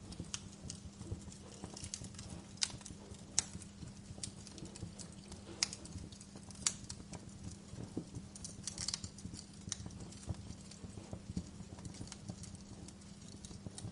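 Wood fire burning in a fireplace, crackling with irregular sharp pops and snaps over a low, steady background.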